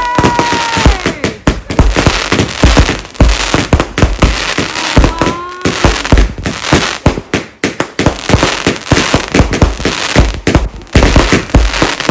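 Fireworks going off in quick, irregular succession: many bangs and crackles, with a whistling firework that falls in pitch about a second in and another whistle rising about five seconds in.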